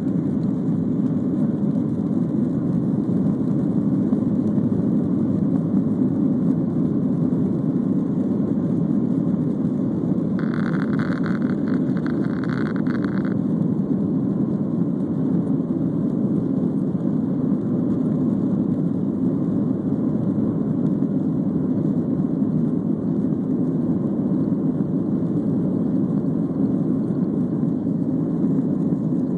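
Steady, deep rumble of jet engines and rushing air inside a jet airliner's cabin. About ten seconds in, a brief, fainter, higher-pitched pulsing sound lasts roughly three seconds.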